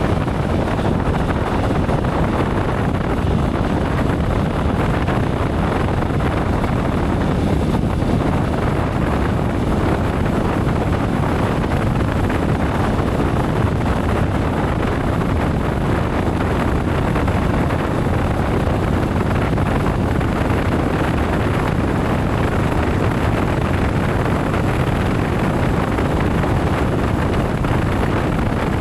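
Steady wind rush and road noise of a motorcycle riding at speed, with the wind buffeting the microphone.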